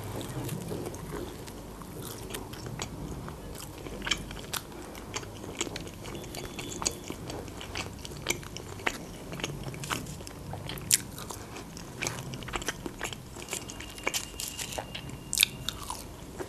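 Close-miked eating: biting into and chewing papadias flatbread and potato wedges, with many irregular sharp crunches and mouth clicks.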